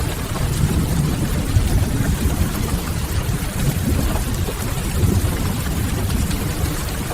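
Steady rain mixed with a crackling wood fire: an even, continuous wash of noise with a deep low rumble underneath.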